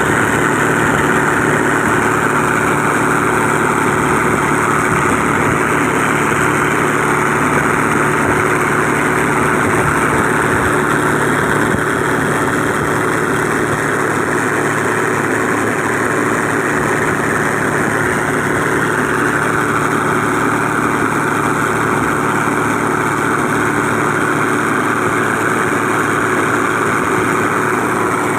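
Engine of a fully loaded motor boat running steadily, its tone shifting slightly about two-thirds of the way through.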